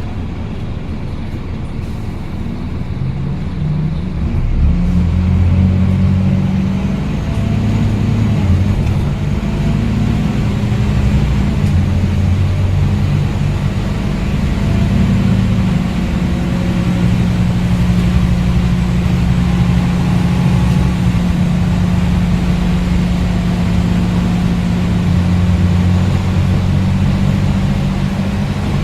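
Scania N230UD bus's five-cylinder diesel engine pulling hard under acceleration, getting louder about four seconds in and then staying loud and steady.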